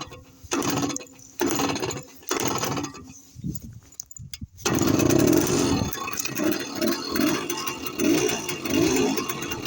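Karpaty moped's small two-stroke engine: several short bursts about a second apart with quiet between. About halfway through it settles into running continuously, its level rising and falling.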